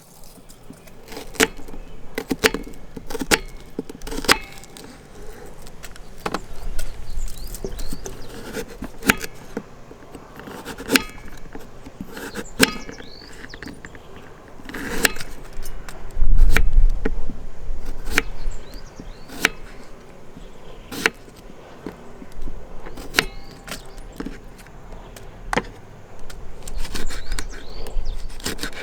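Irregular sharp clinks and knocks of small objects being handled, about one every second or so, over a low rumble that swells loudest about halfway through.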